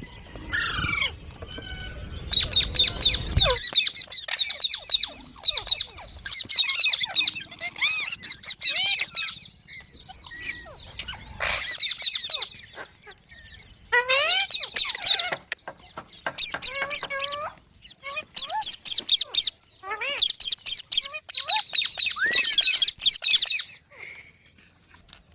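Green parrot calling in about six bouts of rapid, high-pitched chattering calls, each lasting one to three seconds, with short pauses between. A low rumble sits under the first few seconds.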